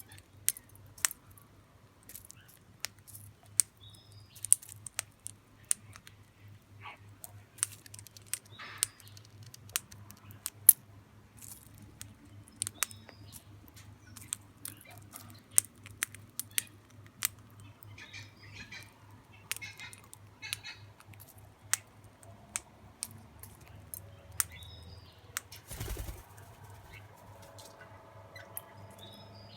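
Crimson rosellas feeding: many irregular sharp clicks and taps with soft chirps now and then. Near the end there is one low thump.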